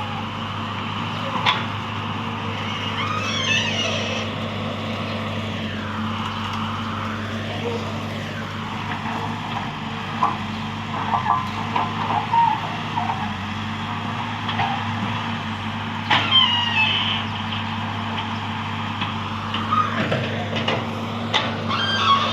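Excavator's diesel engine running steadily at a constant pitch, with short high squeals and sharp knocks at intervals from the machine's working parts.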